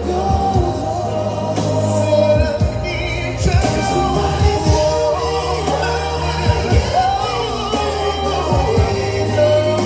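Live R&B vocal group singing a slow ballad over a band, with a wavering lead voice and held bass notes under drum hits.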